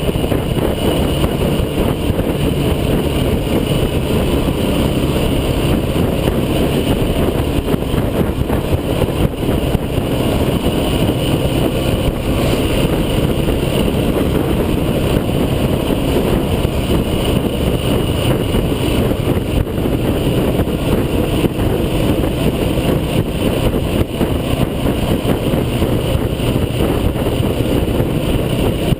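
Off-road vehicle running steadily, a loud continuous engine and driving noise with no break.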